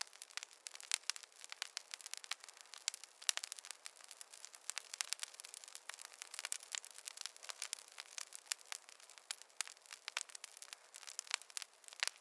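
Campfire crackling: a dense run of irregular sharp pops and snaps over a soft steady hiss.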